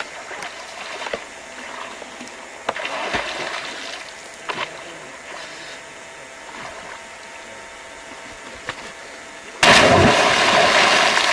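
Water splashing and sloshing in short, scattered bursts. Near the end comes a sudden, much louder splash that lasts about two seconds.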